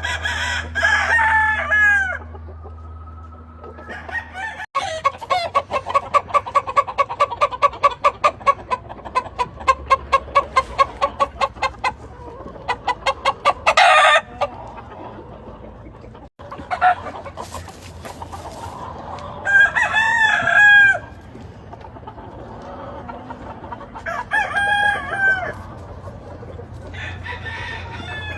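Asil gamefowl roosters crowing four times, with a run of rapid clucking at about four calls a second lasting several seconds in between. A brief sharp noise comes about halfway through.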